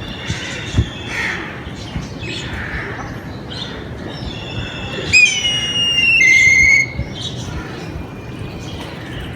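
Birds calling and chirping, with one loud drawn-out call about five seconds in that steps down to a lower pitch after about a second.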